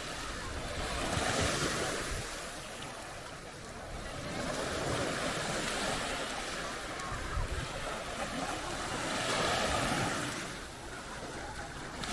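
Sea waves breaking and washing up on a sandy beach, rising and falling three times.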